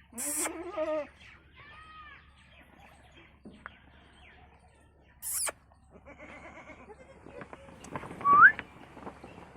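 A goat bleats once, a wavering call about a second long at the start. Bird chirps follow, with a short rising chirp near the end, and a brief rushing noise comes about halfway through.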